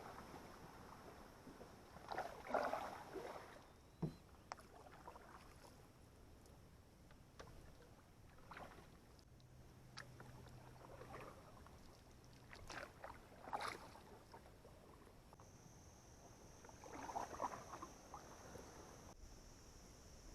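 Quiet canoe paddle strokes in the water: soft swishes and drips every few seconds, with one sharp knock about four seconds in.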